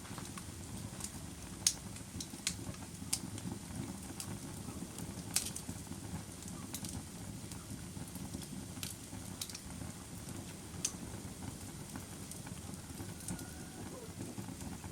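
Campfire burning: a steady low rumble of flame with scattered sharp crackles and pops from the burning wood.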